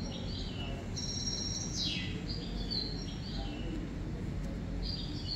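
A bird singing short, high, repeated phrases about four times, one ending in a falling sweep, over steady low background noise.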